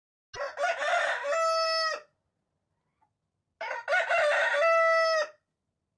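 Rooster crowing twice, each crow starting rough and ending in a long held note.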